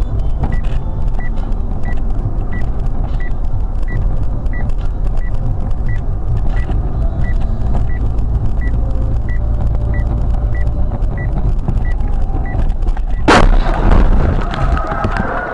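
Steady low rumble of a moving vehicle with a short high beep repeating evenly, about three every two seconds. About thirteen seconds in comes a sudden loud bang: a car crash.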